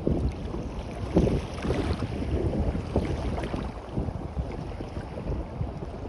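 Waves washing on the beach, with wind buffeting the microphone in irregular gusts that give a heavy low rumble.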